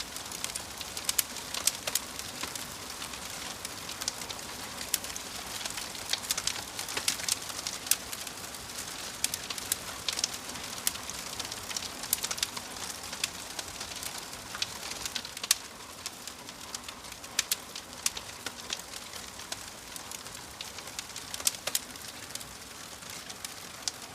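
Wood fire burning in a fireplace: a steady hiss with frequent, irregular sharp pops and snaps from the burning logs.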